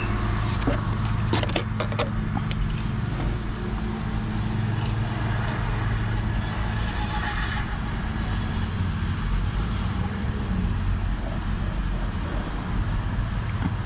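Steady low hum and rumble, with a few light clicks in the first two seconds.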